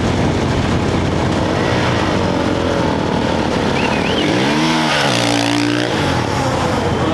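Off-road race motorcycle engine revving over a steady din of engine noise. About four seconds in, one engine's pitch rises and falls, then holds level for about a second and a half before cutting off.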